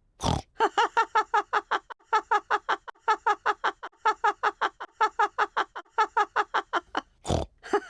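A high, squawky cartoon voice laughing a fast, repeated "ho-ho-ho", about five syllables a second, with two short breaks.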